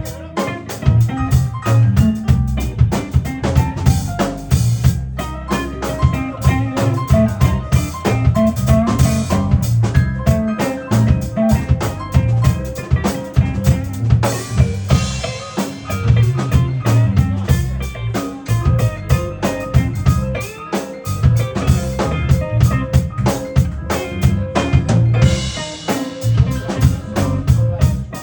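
Keyboard music played over a steady drum-kit beat, with a strong bass line and sustained chords.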